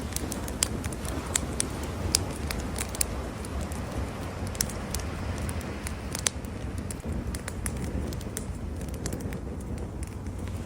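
Wood campfire crackling, with irregular sharp pops, most of them in the first few seconds and again around the middle, over a steady low rush of surf.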